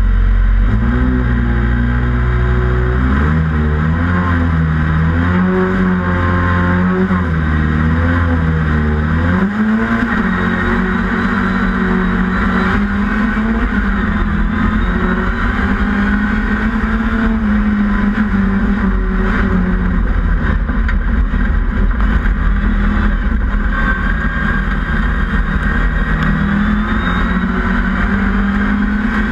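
Mini autograss racing car's engine heard from inside the cockpit, working hard under race revs. Its pitch jumps up and down in steps over the first ten seconds, then holds fairly steady and climbs again near the end, over a constant rumble from the car on the dirt track.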